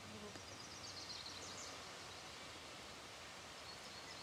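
A small songbird's faint high chirps, a quick run of short falling notes in the first couple of seconds, over quiet outdoor background noise.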